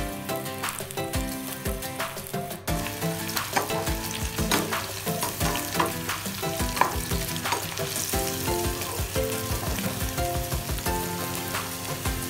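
Okra pieces coated in gram-flour batter sizzling and crackling as they fry in hot oil in a pan, stirred with a slotted metal spatula.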